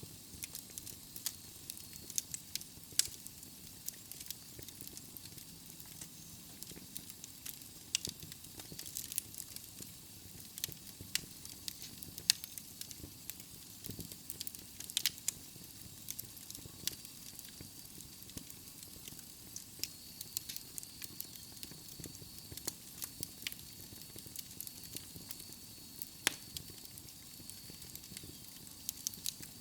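Wood fire burning in a fireplace: logs crackling and popping with irregular sharp snaps over a steady soft hiss of the flames.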